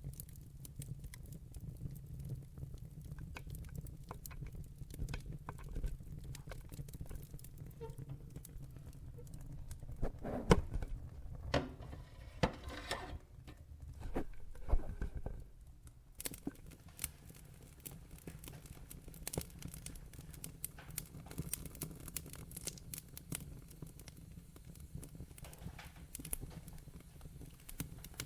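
Wood fire in a fireplace crackling, with many sharp pops and snaps over a low steady rumble of the flames. A run of louder pops comes about halfway through.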